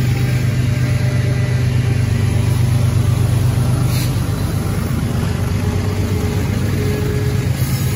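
Freight train passing at close range: a steady rumble of cars on the rails under the low drone of BNSF diesel locomotives going by, with a single brief clank about halfway through.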